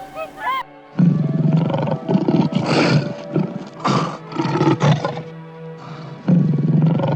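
Geese honking briefly, cut off abruptly, then a big cat roaring in a series of deep calls with short pauses between them.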